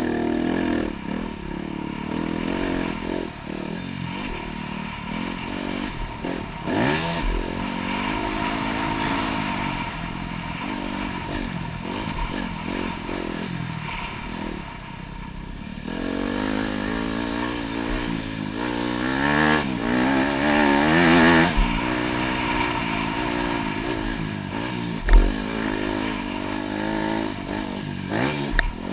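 Dirt bike engine revving up and falling off again and again with the throttle, with rattling and scraping throughout and one sharp knock about 25 seconds in.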